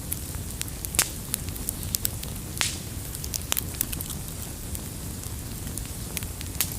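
Campfire crackling: burning wood giving irregular sharp pops and snaps over a low steady rumble, the loudest snap about a second in.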